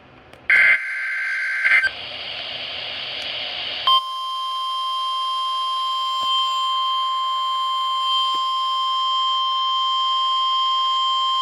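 NOAA Weather Radio weekly alarm test, heard over a weather radio with reception hiss. A short warbling two-tone digital data burst comes first, then hiss. About four seconds in, the 1050 Hz Weather Alert Tone starts: a single loud steady beep held for about nine seconds that cuts off abruptly.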